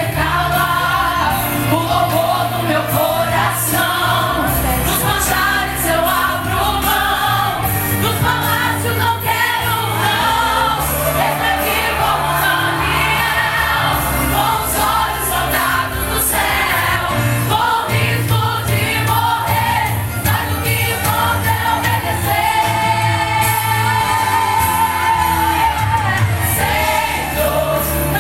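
Church youth worship group singing a gospel worship song as a choir over band accompaniment with a steady bass line.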